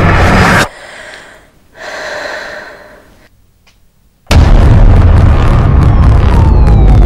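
Trailer sound design: loud dramatic score cuts off abruptly a little under a second in, leaving a quiet stretch with a brief breathy swell. Near the middle a heavy boom hits and runs on as a loud, deep rumble, with a faint tone sliding downward near the end.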